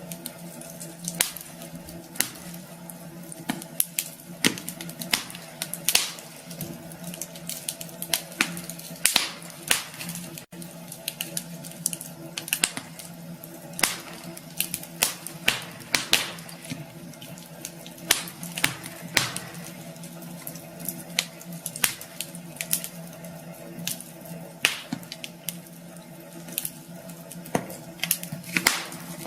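Wood fire crackling in a fireplace, with many irregular sharp pops and snaps over a steady low hum.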